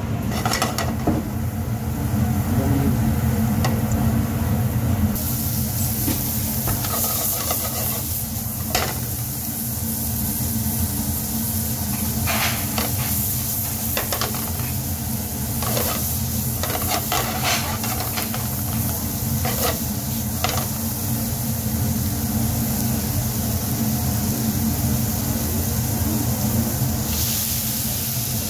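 Beef cubes, sliced mushrooms and onion frying in butter in a pan over a gas burner, a steady sizzle that starts about five seconds in. Several knocks and clanks come as the pan is tossed and stirred, over a steady low hum.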